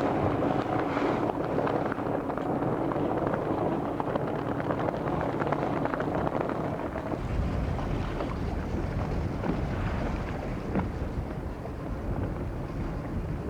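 Wind buffeting the microphone aboard a small motorboat, with the boat's engine running steadily and water noise beneath it. The low wind rumble grows heavier about halfway through.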